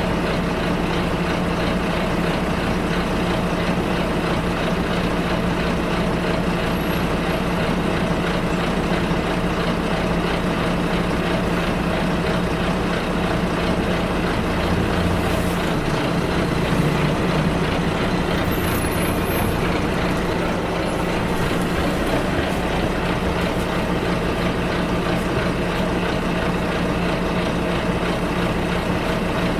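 Ride inside a moving bus: the engine drones steadily under road and cabin noise, and its note shifts briefly about halfway through.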